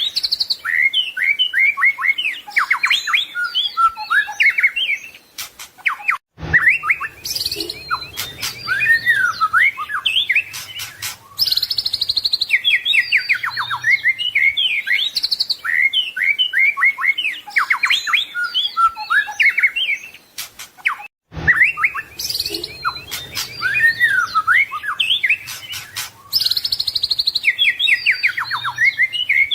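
White-rumped shama (murai batu) singing a rapid, varied song of sliding whistles, trills and chips. The song breaks off twice, about 6 and 21 seconds in, and the same run of phrases starts over after each break.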